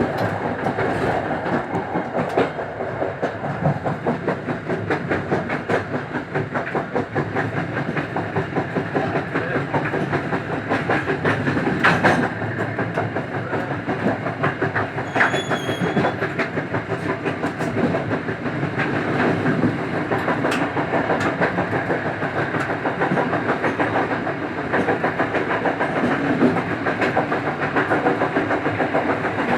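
Local passenger train running along the line, heard from its rear: a steady rumble with wheels clicking over rail joints. A louder knock comes a little before halfway, followed shortly by a brief high-pitched squeal.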